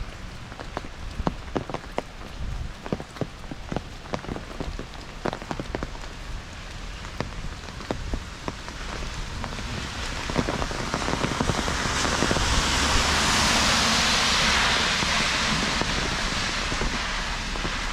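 Heavy rain falling, with sharp, separate drop impacts through the first half. From about halfway a broad hiss swells, loudest near the end, then eases a little.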